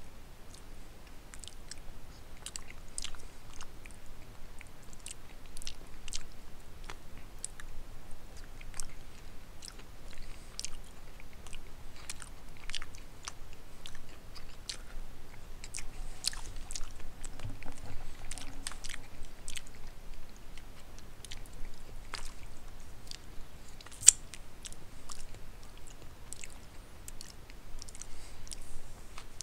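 Close-miked chewing of a mouthful of pot roast, carrots and potatoes: irregular wet smacks and mouth clicks, with one sharp click about three-quarters of the way through.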